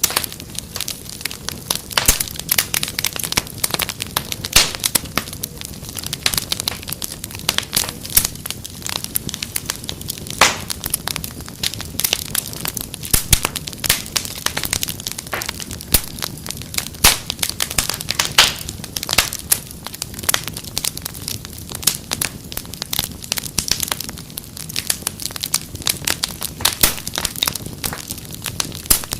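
Wood fire crackling steadily, with frequent irregular sharp pops and snaps over a low hiss.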